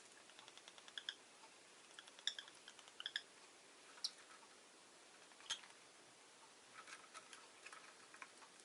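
Rosy-faced lovebird making faint short chirps and clicks, scattered in small clusters, with one sharper click about halfway through.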